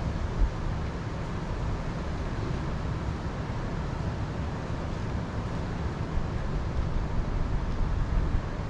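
Wind blowing over the microphone: a steady low rumble that rises and falls slightly in gusts.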